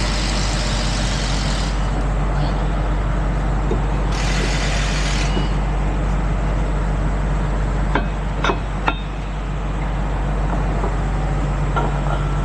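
A truck engine idling steadily, with two short bursts of hiss in the first few seconds and a few sharp metal clanks about eight seconds in.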